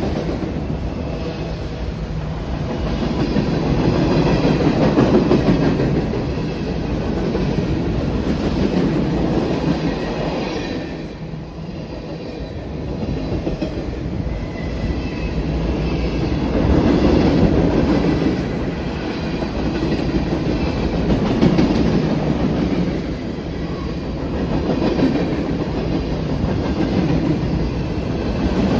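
A train's cars rolling past on the rails: a continuous rumble of wheels on track with clickety-clack that swells and fades every few seconds, and faint high ringing from the wheels.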